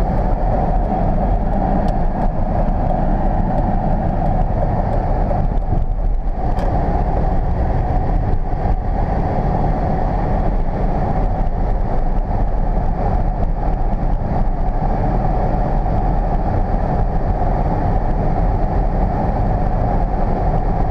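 Steady cabin noise inside a 1999 Volvo S80 T6, with its twin-turbo straight-six and road noise running evenly throughout.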